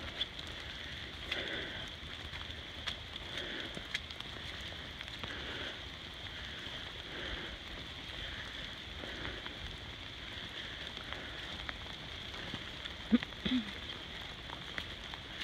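Rain falling steadily, with soft footsteps on a muddy dirt trail about every second and a half. A short squeak comes near the end.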